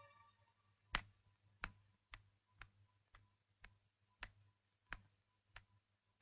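A quiet track with faint, sharp ticks or taps, about two a second and slightly uneven, over a low hum.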